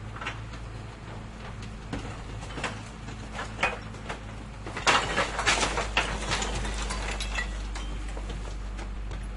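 Garbage truck engine idling with a low, steady hum, with scattered knocks and rattles from the garbage container and its load, and a burst of loud clattering about five seconds in.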